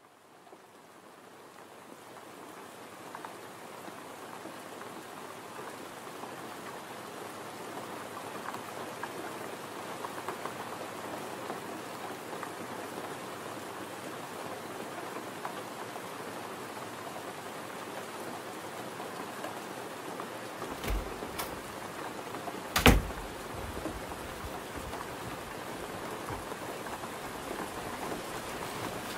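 Steady rain falling on a wet flat roof, fading in over the first few seconds. About two-thirds of the way through come a few sharp knocks, one of them loud.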